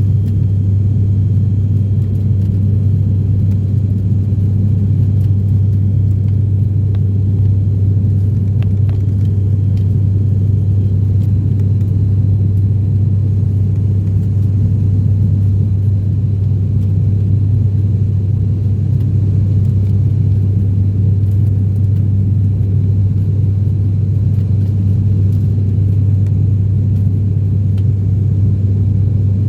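ATR 42-600's turboprop engines and propellers droning steadily, heard inside the cabin as a loud, deep, constant hum with a rumble.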